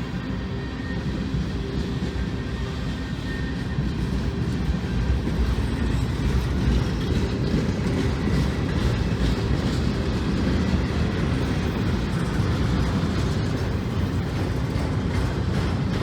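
Union Pacific freight train rolling past: a steady low rumble of wheels on rail that grows a little louder about four seconds in.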